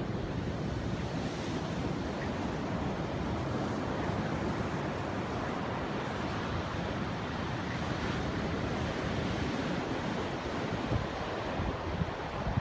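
Ocean surf breaking and washing on the beach in a steady rush, with wind on the microphone and a few low buffeting gusts near the end.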